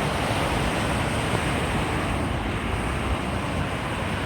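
Steady rush of flowing water, an even noise without pauses that slowly eases off.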